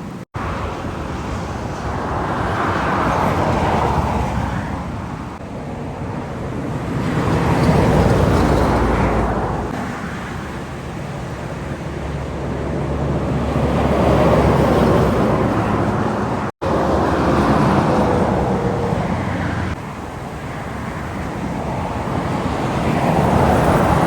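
Heavy trucks and other highway traffic passing one after another, each one swelling and fading over a low rumble of engines and tyres. There are two sudden brief gaps, just after the start and about two-thirds through, where the recording cuts.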